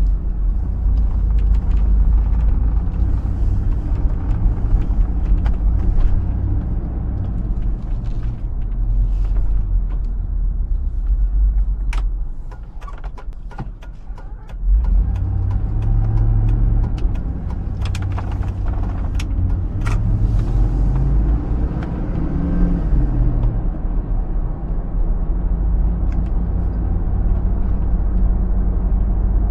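Hummer H2's 6.0 L V8 engine and road rumble while driving, a steady low drone. About halfway through it drops quieter for a couple of seconds, then comes back louder with the engine note rising, and a few sharp clicks are heard around the middle.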